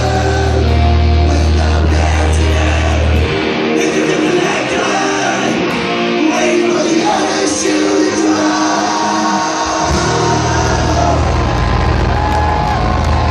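Punk band playing live and loud, with shouted vocals over the instruments. The heavy low bass drops out about three seconds in and comes back about ten seconds in.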